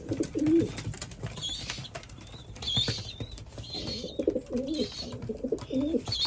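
Racing pigeons in a loft cooing in low warbling bursts, with short high squeaky calls repeating about once a second over them.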